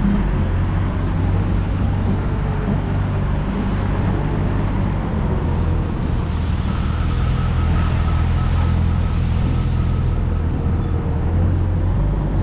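Steady rumble of road traffic on a city street, cars passing and running without a break.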